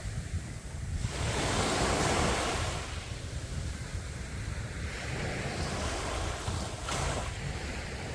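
Sea waves breaking and washing up the beach, one wave swelling loudest about one to three seconds in before settling into a steadier wash. Wind rumbles on the microphone throughout.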